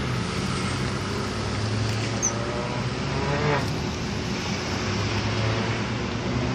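Locomotive 7236 running with a steady low drone. A brief pitched sound bends up and down in the middle.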